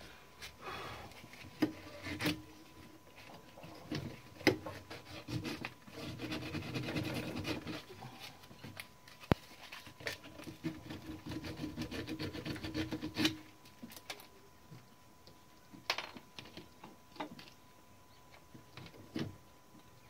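A small hand tool scraping and rubbing on metal in several stretches, with scattered clicks and taps, as a fresh solder joint on a typewriter part is worked smooth.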